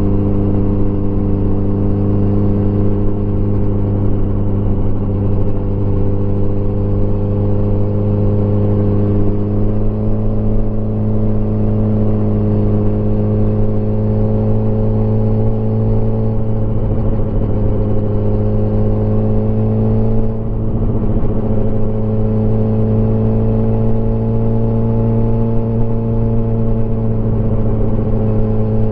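Motorcycle engine running at a steady cruise, its pitch edging slowly upward, with a brief dip in level about twenty seconds in.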